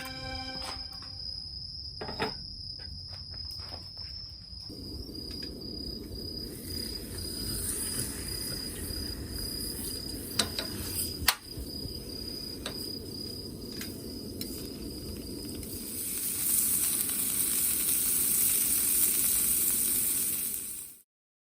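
A steady high insect trill over a low, even hiss, with a few sharp clicks. Near the end a louder, higher hiss comes up, then cuts off abruptly.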